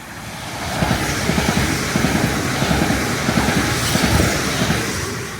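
Electric passenger train passing close by at speed. A rush of wheel and air noise builds over about a second, carries rapid thumps of wheels on the rails, and eases off near the end.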